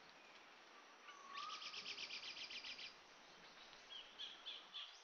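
Faint birdsong: a rapid trill of about a dozen high notes, roughly eight a second, and a few shorter chirps near the end.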